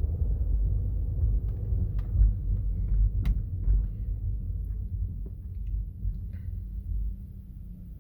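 Low road and drivetrain rumble of a 2012 Chevrolet Cruze being driven, easing off over the last few seconds. A few light clicks, and one sharp click about three seconds in.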